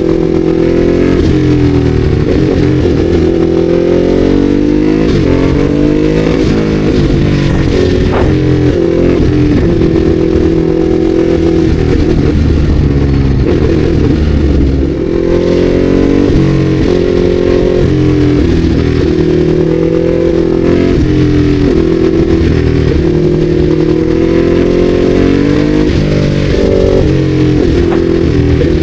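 Ducati Hypermotard 821's L-twin engine running under way, heard from the rider's seat. Its revs climb and drop again and again as the bike accelerates and slows, with a brief dip about halfway through.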